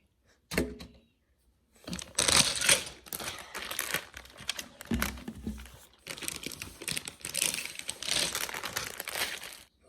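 A plastic Lego parts bag crinkling as it is handled and torn open.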